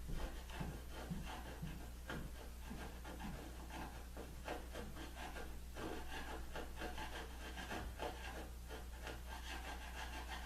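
Repeated, irregular rubbing and scraping strokes on wood as leaked-through wood glue is cleaned off the tabletop, over a low steady hum.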